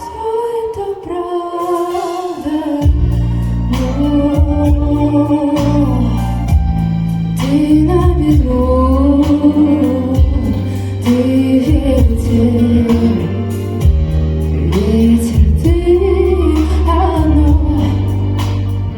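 Solo female voice singing a pop song over a backing track, with a steady bass line and beat coming in about three seconds in.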